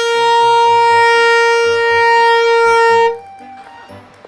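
Handheld canned air horn blasting one loud, steady high note that cuts off suddenly about three seconds in. It had got stuck sounding.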